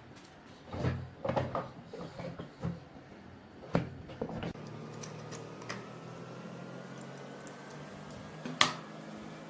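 Knocks and clatter of rusted metal gun parts being handled, a dozen or so in the first half, then a steady low hum with a faint whine slowly rising in pitch and one sharp click near the end.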